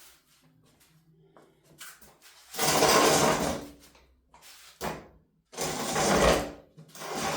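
Domestic sewing machine run in short bursts of about a second each, three times, with a short click between the second and third.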